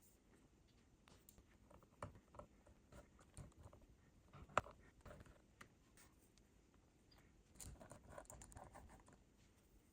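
Faint, scattered clicks and light scraping of small metal parts being handled on a workbench, with one sharper click about halfway through: output transistors and their new fasteners being refitted to a heatsink plate.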